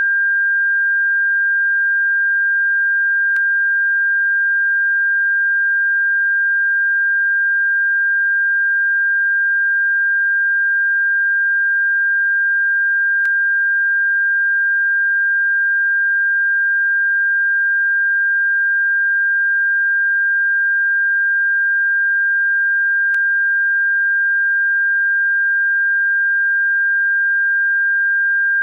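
A steady electronic pure tone of about 1.6 kHz, a bird-repellent frequency, held at one pitch and level, with a faint click about every ten seconds.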